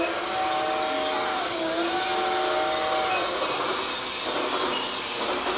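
Toy Christmas-tree train running on its track with a steady whirring and rattling. Over the first three seconds a held multi-tone whistle sounds, dipping briefly in pitch about halfway through.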